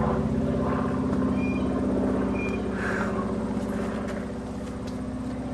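A steady low mechanical hum made of several even, unchanging tones, like a motor running, with a couple of faint short high chirps.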